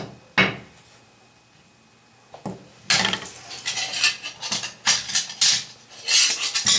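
Hard objects clattering and clinking as they are handled: two sharp knocks at the start, then after a pause of about two seconds a busy run of clinks and knocks, as when metal tools or parts are picked through.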